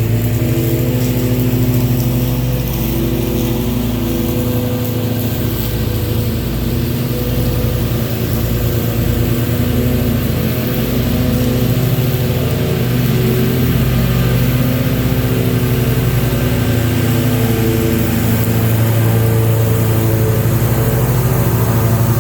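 Engine running steadily at an even speed, a strong low hum that swells slightly a couple of times.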